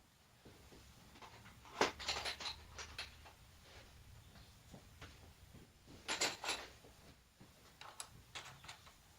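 Light clicks and knocks of hard objects being handled, in two louder clusters about two seconds in and about six seconds in, with a few fainter taps near the end.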